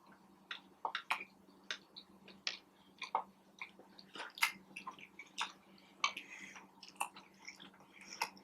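A person chewing Burger King fast food close to the microphone, with irregular short mouth clicks and smacks several times a second.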